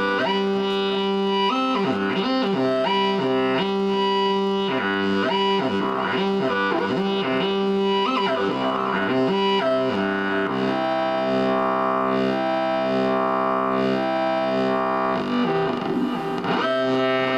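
Moog Theremini played through a small Fender Frontman G10 guitar amp: a synth-like tone stepping quickly from note to note with short glides between them. About halfway through it settles into a long held note with a slow pulsing wobble.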